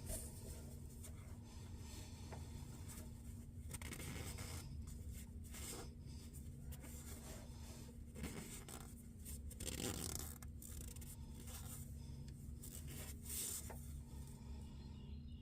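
Faint rubbing and scraping of hands working with parts or a rag, a little louder about ten seconds in and again near thirteen seconds, over a steady low hum.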